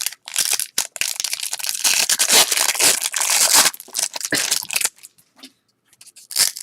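Trading-card pack wrapper being torn open and crinkled by hand, a dense crackling rustle heaviest in the middle, with shorter rustles either side.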